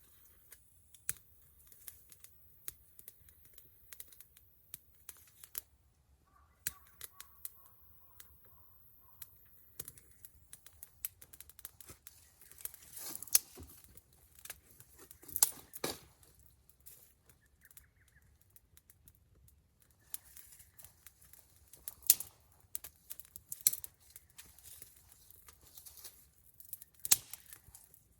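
Wood campfire crackling, with irregular sharp pops and a few louder snaps.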